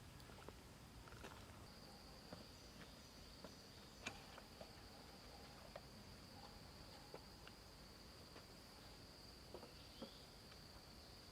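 An insect, cricket-like, singing one steady, high, unbroken note that comes in about one and a half seconds in, with scattered faint clicks and taps.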